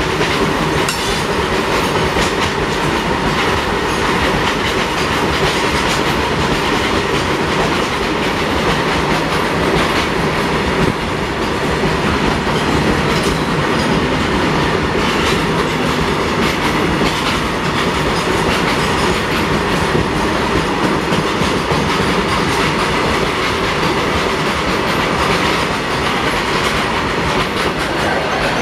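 A long freight train of loaded open-top wagons rolling past at speed: a steady, loud rumble of steel wheels on rail, with the clickety-clack of wheels over the rail joints.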